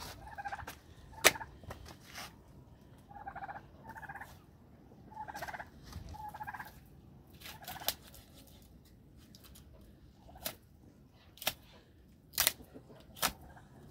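Farm fowl calling: short, repeated nasal calls in small clusters. Sharp clicks and knocks are scattered through, most of them in the second half.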